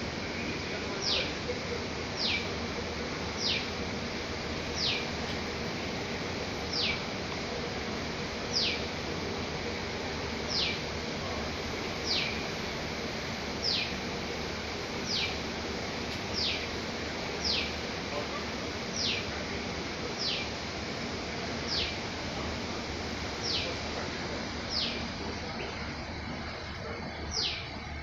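A bird calling a single short, sharply falling whistled note over and over, about once every second or so, over a steady background hiss of outdoor noise.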